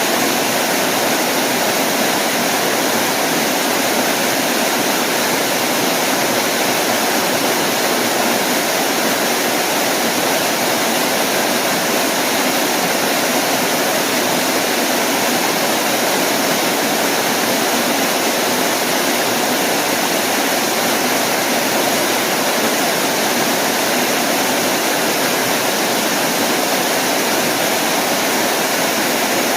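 Waterfall rushing steadily, a constant loud hiss of falling water.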